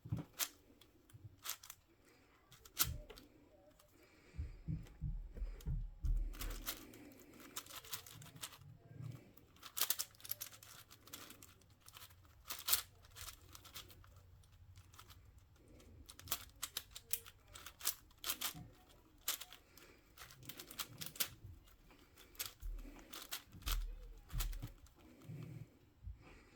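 Plastic twisty puzzle (speedcube) being turned fast by hand: runs of rapid clacking layer turns broken by short pauses, with a few dull knocks from handling the cube.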